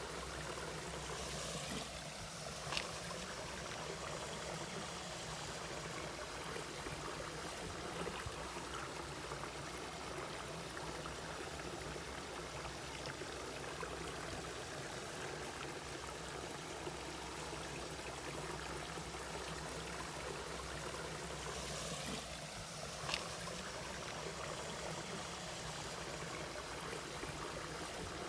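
Mountain valley stream running steadily over rocks, with a continuous splashing and trickling. There is a brief sharp click or splash about three seconds in and another near the end.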